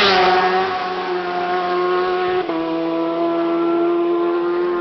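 Racing superbike flashing past at full speed, its engine note falling sharply as it goes by. The engine then holds a high, steady note as it pulls away, with one step down in pitch about two and a half seconds in.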